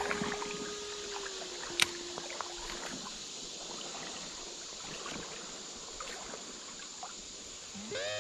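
Shallow creek water running and sloshing, an even watery hiss, with one sharp click about two seconds in.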